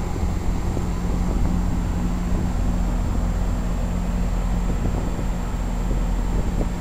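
Two 2010 Janitrol 13 SEER heat pump outdoor units running together after startup, compressors and condenser fans giving a steady hum. A second, slightly higher hum tone joins about two seconds in.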